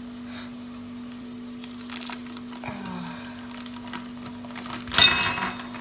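A packet of salt crinkling once, briefly and loudly, about five seconds in, over a steady low hum.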